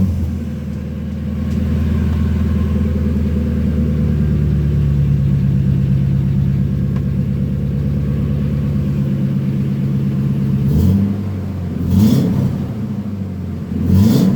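2000 Ford F250 Super Duty's 5.4-litre V8 running through a Flowmaster FlowFX muffler welded to a Cherry Bomb muffler, with no catalytic converter. It idles steadily just after starting, the idle steps down about eleven seconds in, and near the end the throttle is blipped twice, about two seconds apart.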